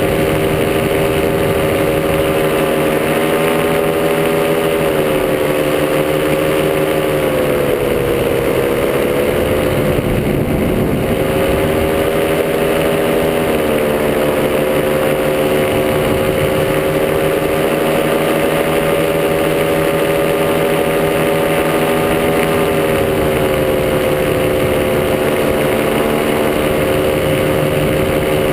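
Top80 paramotor's small two-stroke engine running steadily in flight. Its pitch sags a little about five seconds in and climbs back by about nine seconds as the throttle is eased and reopened.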